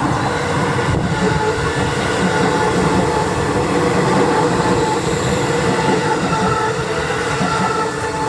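Seibu 9000 series electric train running on the line: a steady rumble of wheels on rails with several thin whining tones held above it.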